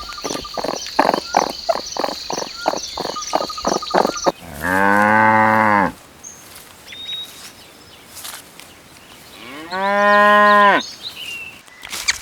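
A cow mooing twice: a long, low moo of about a second and a half, then a shorter, higher moo a few seconds later. Before the first moo, a rapid clicking chorus over a steady high trill cuts off as the moo begins.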